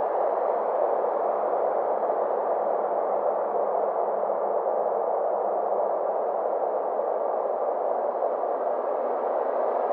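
Synthesized space-ambience drone: a steady, dense hiss centred in the midrange, slowly sweeping like a phaser, duller through the middle and brightening again near the end.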